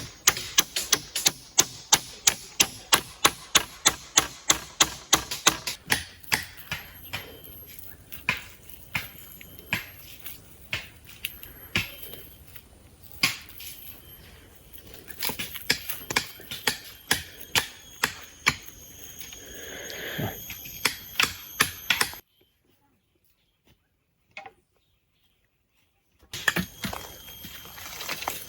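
Repeated sharp knocks from a tool striking something. They come fast and regular, about three or four a second, at first, then slow to an irregular run. About three-quarters of the way through they stop dead for a few seconds, then start again.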